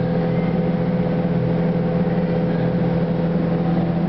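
Paint booth exhaust fans running with a steady, even hum, still on after spraying to clear the paint fumes.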